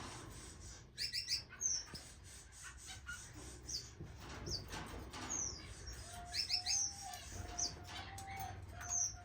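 Small aviary finches (waxbills, strawberry finches and munias) chirping with short, high, falling calls, some in quick runs of three, amid light wing flutters.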